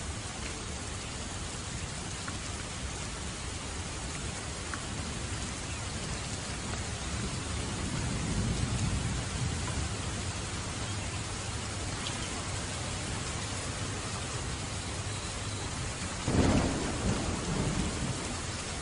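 Steady rain falling, with a low roll of thunder swelling about eight seconds in and a sudden louder thunderclap near the end that rumbles away over a couple of seconds.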